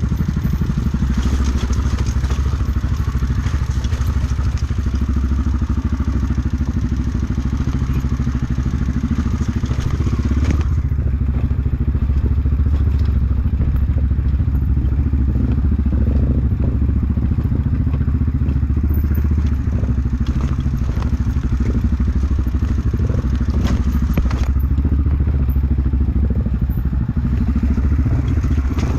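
Off-road motorcycle engine running steadily while riding a rough dirt trail, with clattering and thumps from the bumpy ground.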